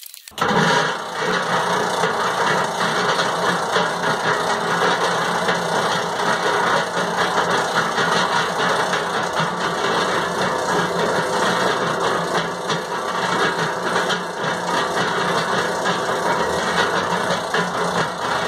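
Homemade sand muller, built on a cement-mixer drum, switched on about a third of a second in and running steadily. Its drum turns and the roller assembly runs against the wear plate, making a continuous mechanical rumble with a low steady hum.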